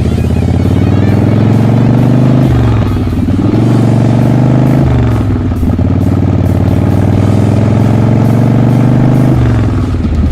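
Custom bobber motorcycle engine running, with its pitch shifting up and down a few times as it is revved, about two and a half, five and nine and a half seconds in.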